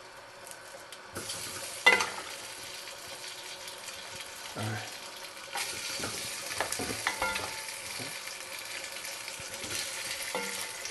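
Fried cow foot sizzling in hot oil in a steel pot as a metal spoon stirs and scoops through it, with a few sharp clinks of the spoon against the pot, the loudest about two seconds in. The sizzle grows louder about a second in and again around halfway.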